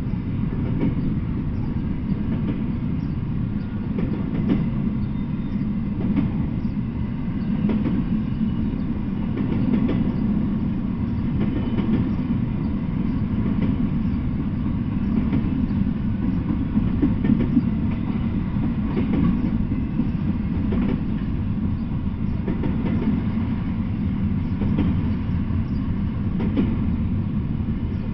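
Double-stack container freight train rolling past: a steady low rumble of steel wheels on the rails, with occasional clicks as wheels cross rail joints.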